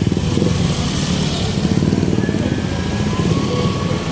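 Ferry boat engine running steadily at cruising speed, a loud low hum with a fast, even throb of firing pulses.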